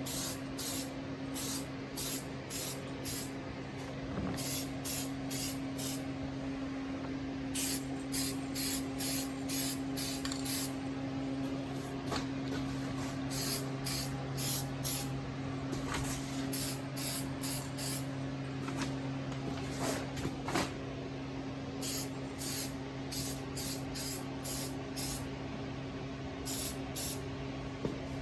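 Aerosol spray-paint can sprayed in short bursts, several a second, in runs with brief pauses between them. A steady low hum continues underneath.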